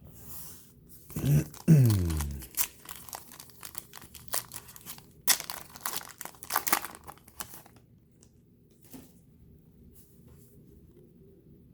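Foil wrapper of a trading card pack being torn open and crinkled, in irregular crackling bursts that stop a few seconds before the end. Near the start there is a brief low voice sound that drops in pitch, louder than the crinkling.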